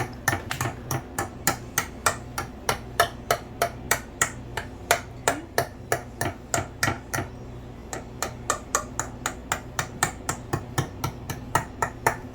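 A metal fork tapping quickly and repeatedly against a baking dish, about five sharp clicks a second with a short pause midway, as it works over the crescent-roll dough.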